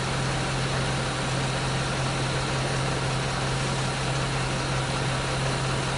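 An engine idling steadily with an even hum, most likely the pickup truck's or the crane's engine.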